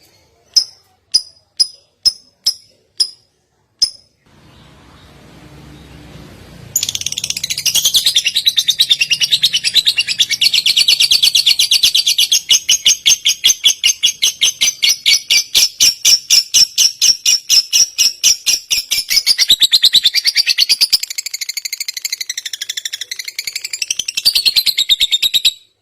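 Recorded songbird: six sharp high chirps about half a second apart, then a long, very fast rattling trill lasting almost twenty seconds, wavering in pitch near the end before it stops suddenly.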